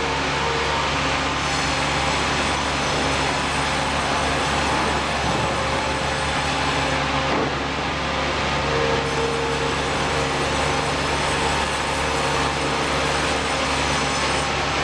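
Machinery running steadily: a constant mechanical hum and rumble with no distinct cuts or impacts.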